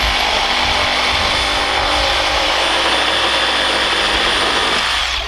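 A power tool running flat out for about five seconds, a steady loud whir with a faint high whine, that stops suddenly near the end.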